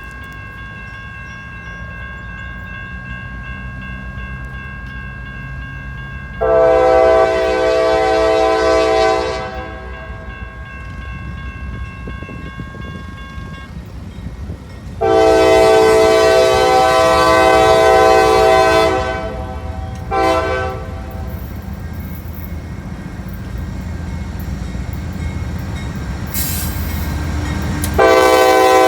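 Diesel locomotive horn sounding the grade-crossing pattern: two long blasts, a short one, and a final long blast starting near the end. Under it is the low rumble of the approaching freight train, growing louder.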